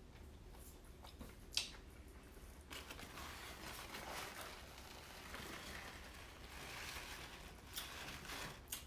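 Faint eating sounds of someone chewing lobster and handling it, with one sharp click about one and a half seconds in and soft crinkly, squishy noise from about three seconds on.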